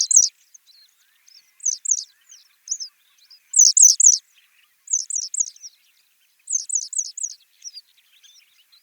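Western yellow wagtail calling: short, high chirps that fall in pitch, mostly in quick runs of two to four with short pauses between.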